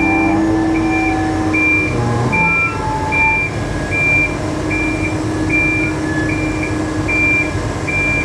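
A crane's motion warning alarm beeping steadily, about one and a half high beeps a second, over a heavy diesel engine running as the crane moves into position.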